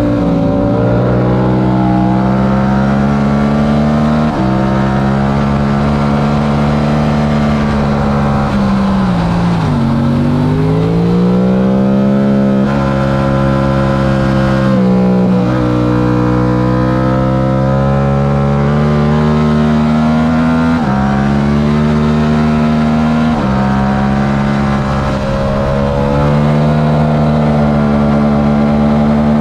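Yamaha R7's stock 689 cc parallel-twin engine running hard at racing revs, its pitch stepping with gear changes every few seconds. About ten seconds in, the revs dip low and then climb steadily as the bike drives out of a slow corner.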